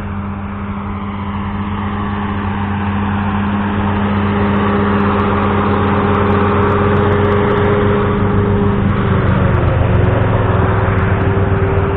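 Engine running steadily with an even drone, growing louder over the first few seconds; its pitch dips and shifts slightly about nine seconds in.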